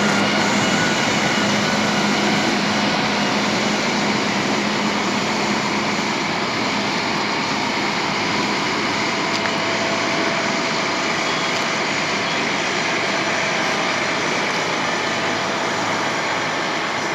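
Steady, loud noise of heavy vehicle engines running, with a low hum that fades out in the first few seconds.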